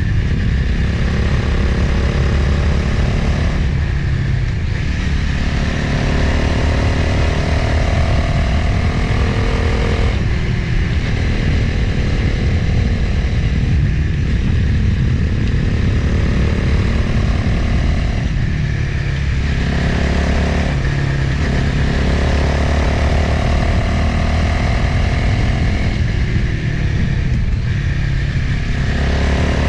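Motorcycle engine running at road speed with wind noise over it; the engine note drops away briefly a few times, about four seconds in, near ten seconds, twice around twenty seconds and again near the end.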